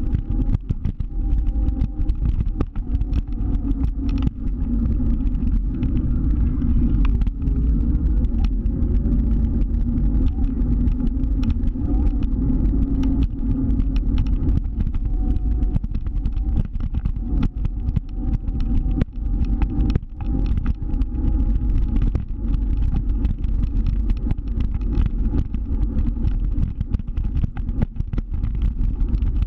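Scooter ride: a heavy low rumble of wind and road on the microphone, broken by many short crackles and knocks, with a faint whine from the scooter's motor that rises briefly about eight seconds in.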